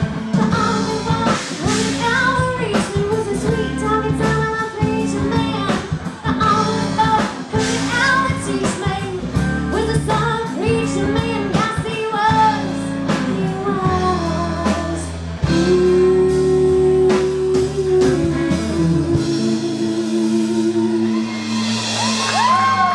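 Live blues-rock band playing with singing, guitar and drums, closing on a long held final chord, with a rising whistle from the audience near the end.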